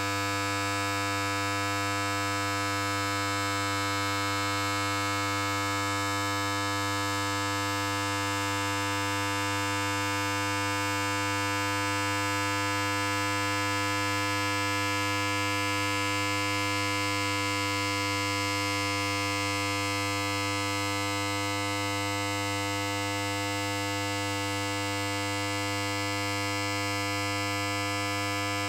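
Electric hair clipper running continuously: a steady low buzz with many overtones that does not change.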